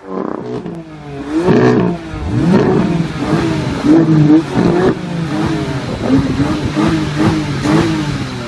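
BMW M4's twin-turbo straight-six revved repeatedly while the car stands still: a rapid series of throttle blips, each rising and falling in pitch, about a dozen in a row.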